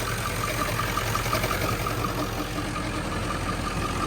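Ford 7.3L Powerstroke V8 diesel idling, with a fast, even chatter from the belt-driven pulleys at the front of the engine. The chatter is the sign of a worn pulley bearing, which the owner later finds fried.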